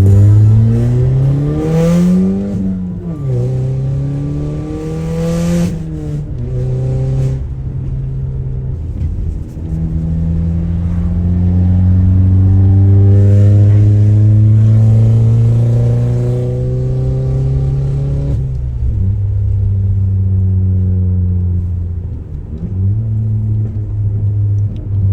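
Straight-piped Audi A3 exhaust, with muffler and resonator removed, as the car accelerates through the gears. The pitch climbs and drops back at two quick gear changes in the first six seconds, then rises slowly and steadily to its loudest about midway, falls away at about 18 seconds, and climbs again near the end.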